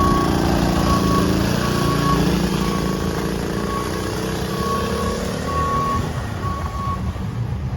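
Kid's small motorcycle engine pulling away under throttle, its note rising slightly as it fades over about six seconds, leaving a steady lower hum. Short high beeps repeat about once a second until near the end.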